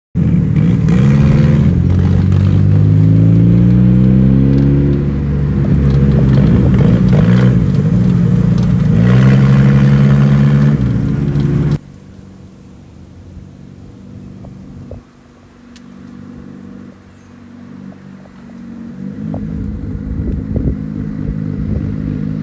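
EK Honda Civic with a freshly swapped engine accelerating hard through the gears, its engine note climbing and dropping back at each shift, four times. About halfway through it cuts off abruptly to a much quieter, low engine sound that builds again near the end.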